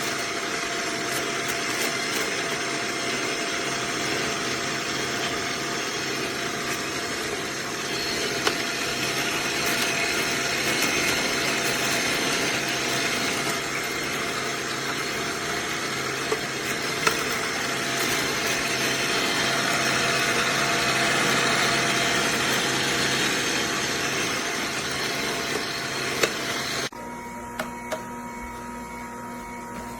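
Cold-press juicer running, grinding and pressing produce steadily with a few clicks; near the end the grinding stops abruptly, leaving a quieter steady hum.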